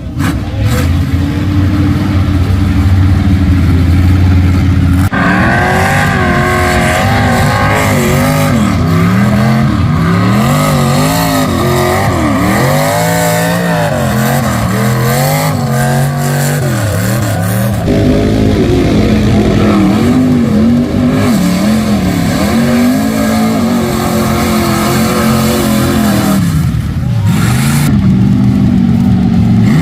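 Loud truck engines revving hard, the pitch swinging up and down again and again as the throttle is worked. The sound changes abruptly about five seconds in and again near the middle and near the end.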